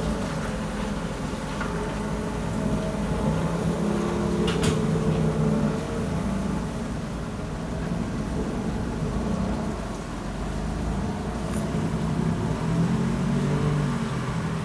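Heavy thunderstorm rain falling steadily under a low rumble that swells and fades, with a couple of sharp drip-like clicks, one about four and a half seconds in and one near the end.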